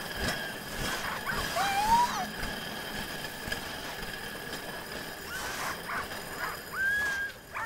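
Harnessed sled dogs whining and yelping while pulling a sled, a few short rising-and-falling cries about a second in and again near the end, over a steady hiss.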